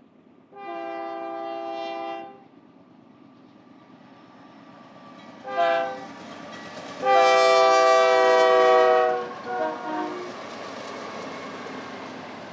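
Union Pacific freight locomotive's horn sounding a series of blasts: a long one, a short one, a louder long one, then a brief one. A train's rumble grows steadily underneath as it approaches.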